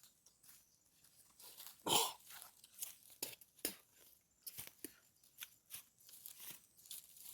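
People eating by hand: irregular crunches, crackles and crinkles of food and its wrapping being handled, with one louder crack about two seconds in.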